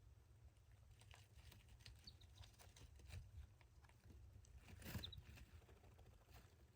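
Near silence: faint scattered scratching and ticking over a low hum, with a somewhat louder rustle about five seconds in and a couple of tiny high chirps.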